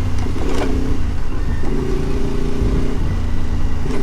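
Adventure motorbike engine running at a steady cruise while being ridden on a gravel road, its pitch holding fairly even.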